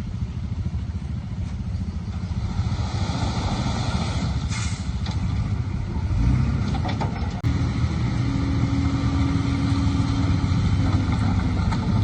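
Heavy earthmoving machine engine running steadily with a deep rumble, broken by a sudden momentary dropout about seven seconds in. After the dropout a steady whine runs over the engine.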